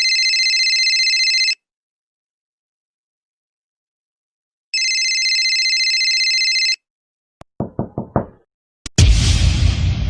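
A string of separate sound effects: a trilling phone-style ring sounds twice, then four quick knocks, then a loud crash about nine seconds in that dies away slowly.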